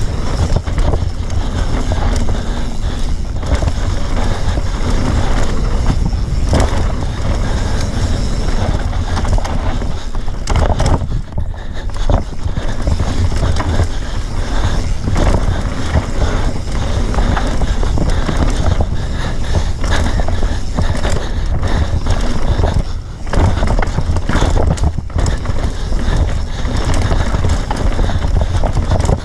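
Enduro bike running a rough dirt trail: continuous rattling and clattering over the ground, with heavy wind buffeting on the camera microphone.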